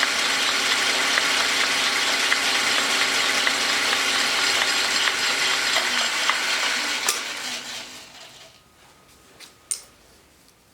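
Metal lathe running with its gear drive whirring, then switched off about seven seconds in and spinning down to a stop. A sharp click follows near the end.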